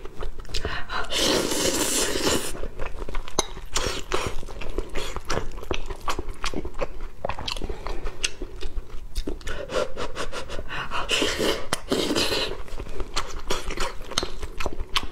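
Close-miked chewing of soft tomato-and-egg rice: wet mouth clicks and smacks, many small ones, through the whole stretch.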